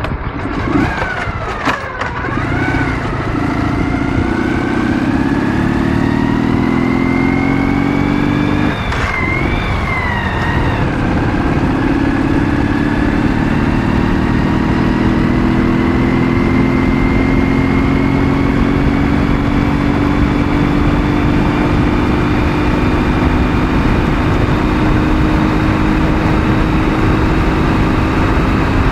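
Ural motorcycle's 650 cc flat-twin engine pulling under acceleration: the revs climb, drop at gear changes about two seconds in and about nine seconds in, then rise in one long steady climb. A steady rush of wind and road noise runs underneath.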